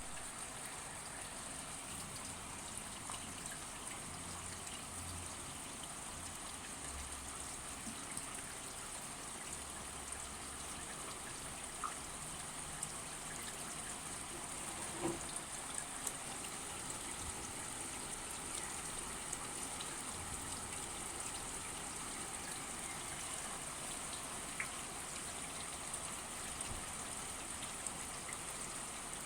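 Steady rain falling, with scattered short ticks of individual drops and drips.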